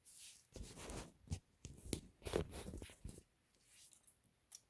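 A wiring connector being worked loose inside a Husqvarna Viking Designer I sewing machine: short plastic scrapes, rubbing and clicks for about three seconds, then a few faint clicks near the end.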